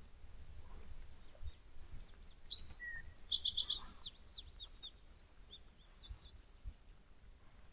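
Small songbirds chirping: a quick run of high repeated notes a little after three seconds in, followed by a string of short, falling chirps.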